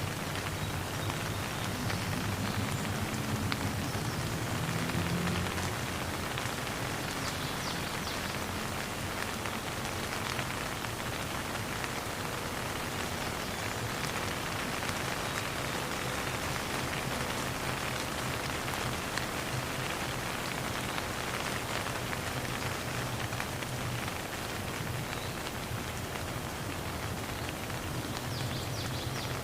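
Steady rain falling and pattering on surfaces, with individual drops ticking through the steady hiss and a faint low rumble underneath, stronger over the first few seconds.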